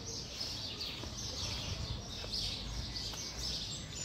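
Birds chirping in a quick, steady run of short, falling calls, about two a second, over a low outdoor rumble.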